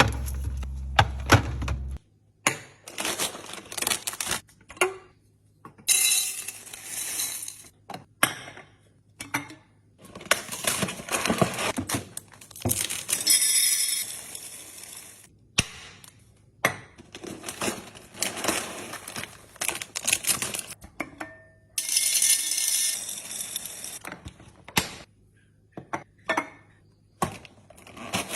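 Groceries and kitchen containers being handled and put away: irregular clicks and clinks of hard containers set down and opened, between short stretches of rustling. A low hum under the first two seconds stops abruptly.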